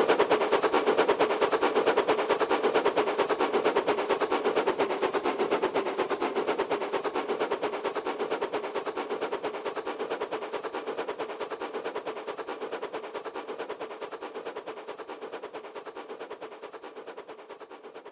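A train engine running with a fast, even beat of pulses that fades gradually as it goes away.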